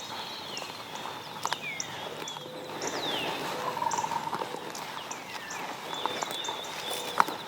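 Wild birds calling with many short, falling chirps, and scattered sharp cracks of twigs and leaves underfoot as someone walks through the woods.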